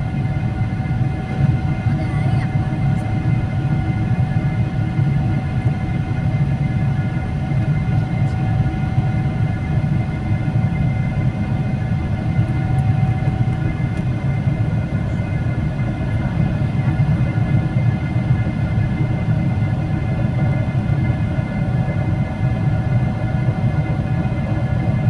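Steady rumble inside a moving passenger vehicle's cabin, with faint steady whining tones over it.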